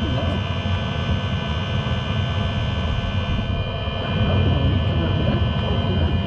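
Diesel air heater running with a steady jet-engine-like roar and a high whine made of several steady tones. The owner puts the noise down to a bearing.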